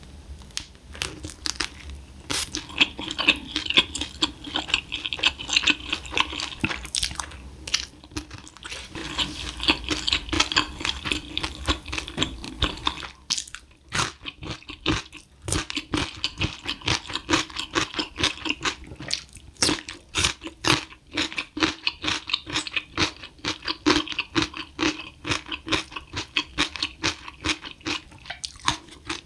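Close-miked chewing of spicy glazed fried chicken: a dense run of wet crunches and mouth smacks, with a short pause about halfway through.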